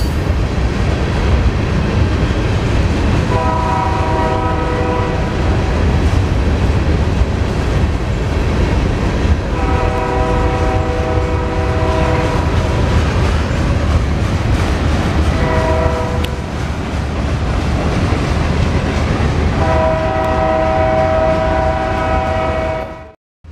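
Freight train rolling past with a steady rumble and wheel clatter, while a locomotive's air horn sounds four blasts, long, long, short, long: the standard signal for a grade crossing ahead. The sound cuts out abruptly near the end.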